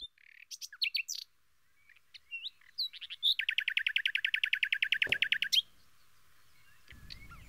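Songbirds chirping in short calls, with a fast, even trill of about a dozen notes a second lasting a couple of seconds in the middle.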